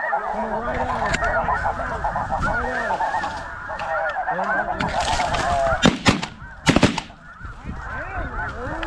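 A large flock of snow geese calling, a dense, unbroken chorus of many overlapping honks. A few sharp cracks come about six and seven seconds in.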